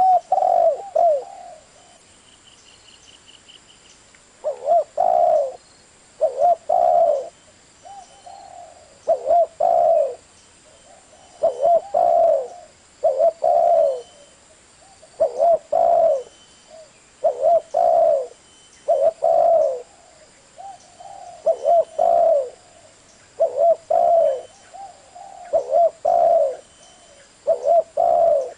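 Spotted dove cooing: short phrases of two or three low coos repeated over and over, about one phrase every one to two seconds, with a pause of a few seconds near the start.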